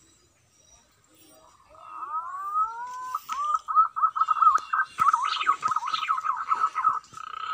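A bird calling close by with whistled notes: a few rising, slurred whistles, then a fast, wavering warble of whistles held at one pitch.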